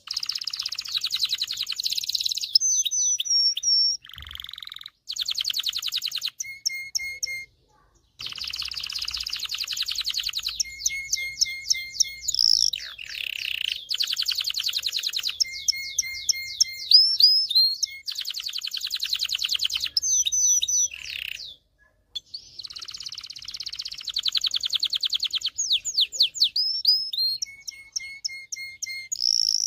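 Domestic canary singing a long song of rapid buzzing trills and fast slurred whistles, with phrases of short repeated notes, broken by brief pauses between phrases.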